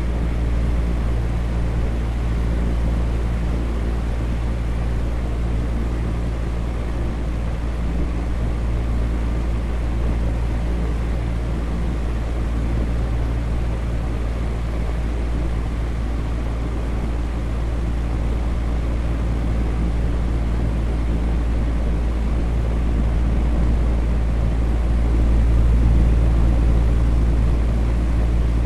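Electric fan running steadily: an even, low-heavy rushing noise with a faint hum underneath, swelling slightly near the end.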